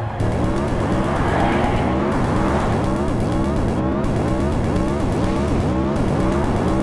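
Car chase: car engines running hard and tyres squealing and skidding, in a dense continuous mix with music underneath.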